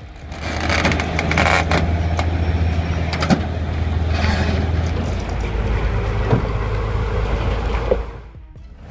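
A vehicle engine running steadily with a few knocks and clanks, then dropping away near the end.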